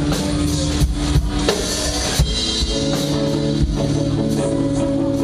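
Live rock band playing: a drum kit with sharp cymbal and drum hits over held guitar and bass notes that change every second or so.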